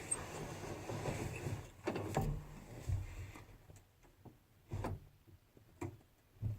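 Handling noises inside a truck cab: about five short knocks and clicks a second or so apart, over a faint low rumble that dies away about three seconds in.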